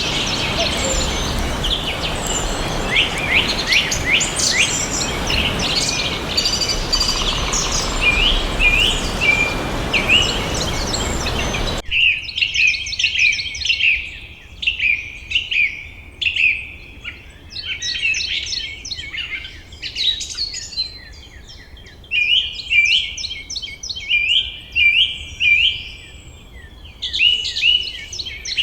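Several songbirds chirping and trilling in quick overlapping phrases. Under the first part runs a steady rushing hiss that cuts off suddenly about twelve seconds in. After that the birdsong continues alone, in bursts with short pauses.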